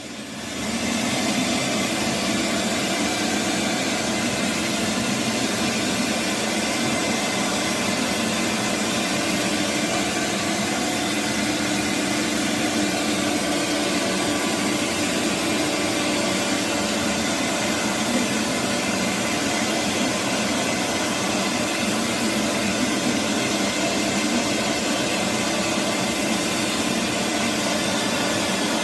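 Electric meat-processing machine switching on and then running steadily with an even motor hum.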